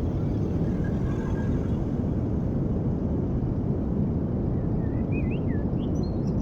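Steady low outdoor rumble with no distinct events, and a few faint high chirps near the end.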